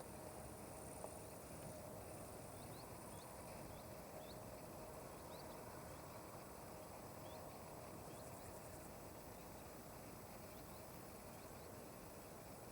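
Faint open-air nature ambience: a quiet steady hiss with scattered short, high, rising chirps and a brief burst of insect chirring about two-thirds of the way through.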